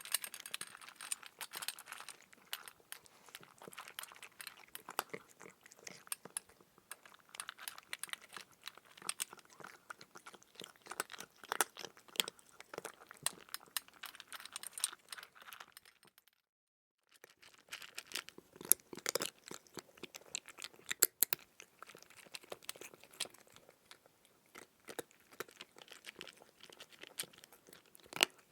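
A cat eating, with rapid, irregular crunching and chewing clicks. The sound breaks off into complete silence for about a second partway through, then carries on.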